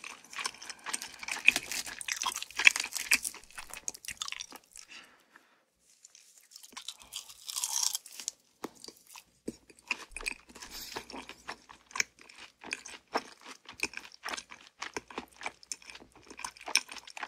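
Close-miked crunching and chewing of crispy fried chicken. There is a short pause about a third of the way in, then a brief soft swell of noise, then the chewing resumes with steady small crunches.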